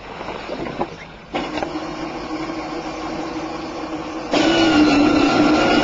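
Electric drive motor and gearbox of a Peg Perego Santa Fe ride-on toy train running with no load, a steady whir. It starts about a second and a half in and gets much louder about three seconds later.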